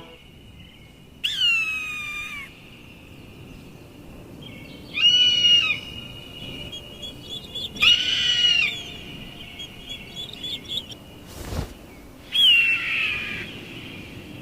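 A bird of prey's screaming calls, four in all, each about a second long, starting sharp and then falling slightly in pitch. There is a single sharp click shortly before the last call.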